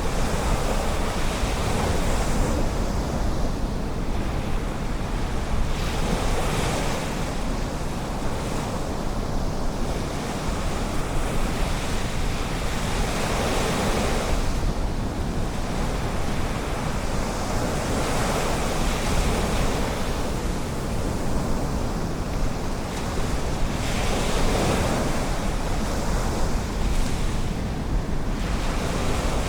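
Ocean waves breaking and washing on a beach, each swell rising and falling every few seconds over a steady low rumble of surf.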